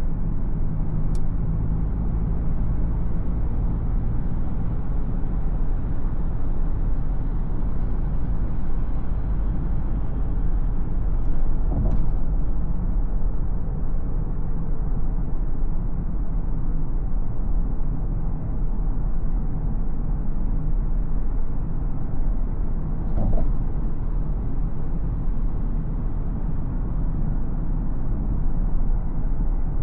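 Driving noise of a BMW X4 xDrive20d: its 2.0-litre four-cylinder turbodiesel and the tyres on the road, a steady low rumble. Two brief knocks come about twelve and twenty-three seconds in.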